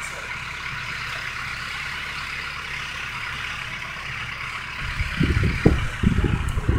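A truck engine running steadily. From about five seconds in, loud irregular low rumbling takes over.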